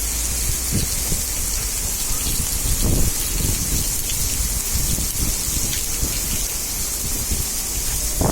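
Heavy rain falling steadily: an even hiss, with a low rumble underneath.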